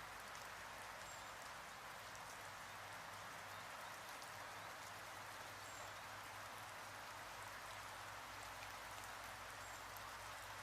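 Faint steady hiss with a few small ticks scattered through it.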